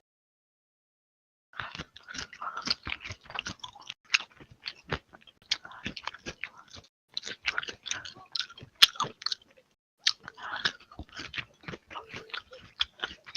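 A person chewing noisily, with wet mouth smacks and crunches in quick irregular succession; it starts about a second and a half in and pauses briefly twice.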